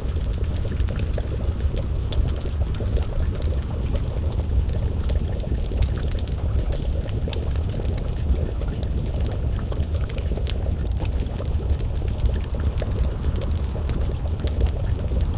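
Wood fire crackling, with frequent sharp pops and ticks over a steady low rumble, and a pot of stew bubbling as it simmers over the flames.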